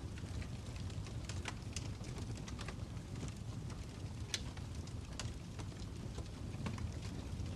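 Fire crackling: a steady low rumble with scattered sharp snaps and pops at irregular moments, the loudest snap about four seconds in.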